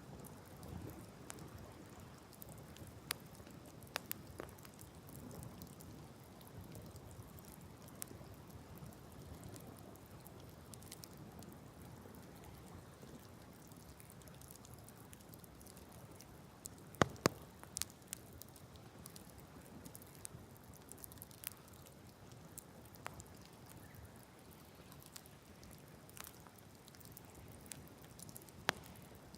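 Wood fire burning directly on the ground, crackling, with scattered sharp pops. The loudest is a quick cluster of pops about halfway through.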